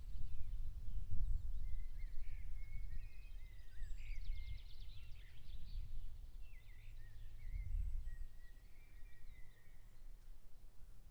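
Several songbirds singing at once, with overlapping trills and chirps, over a low, gusty rumble of wind on the microphone that eases off toward the end.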